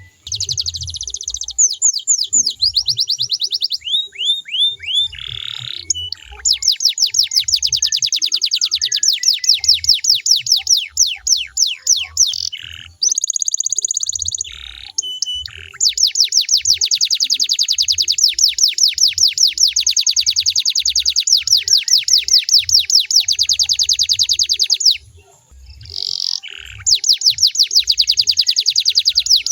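Domestic canary singing long rolling trills of rapidly repeated, downward-sliding high notes, several per second. The song is broken by a couple of brief pauses and changes of phrase.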